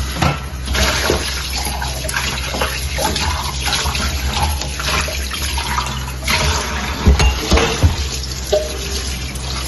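Tap water running into a sink while dishes are washed by hand, with short knocks and clatter of dishes, most of them about seven to eight seconds in.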